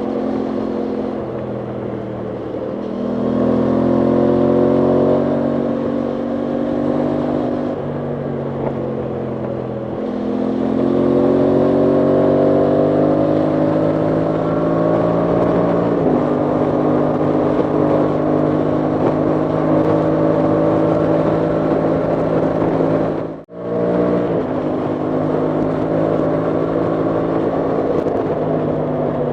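Aprilia Tuono 660 Factory's parallel-twin engine running while riding, rising in pitch as it accelerates about three seconds in and again about ten seconds in, then holding a steady cruise. The sound drops out sharply for a moment about three quarters of the way through.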